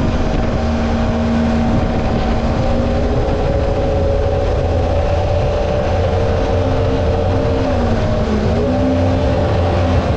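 Mini jet boat's 1053cc Yamaha four-stroke engine running at speed, steady, with its pitch dipping briefly about eight seconds in and then coming back up.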